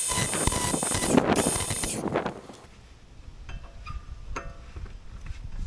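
Electric power tool, which the user calls a grinder, runs loudly for about two seconds on a seized brake-disc screw and winds down as the screw comes free. A few light metallic clinks follow.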